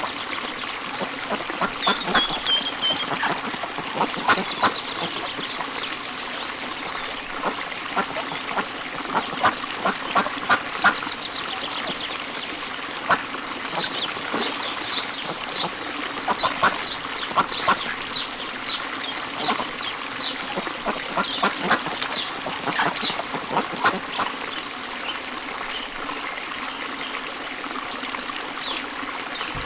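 Many short, sharp bird calls, some in quick series, over a steady wash of running water.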